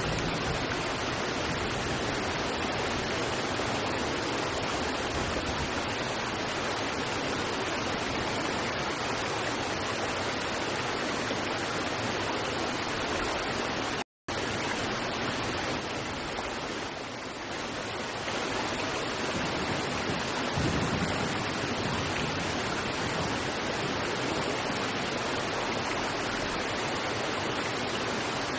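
River water rushing steadily over rocks, a dense even splashing. The sound cuts out completely for an instant about halfway through.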